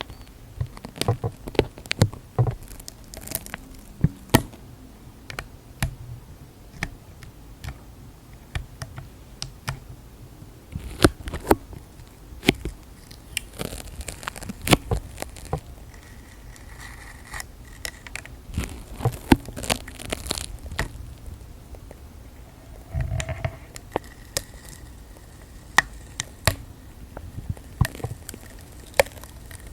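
ASMR trigger sounds made by hand: irregular taps, clicks, crinkles and scratches.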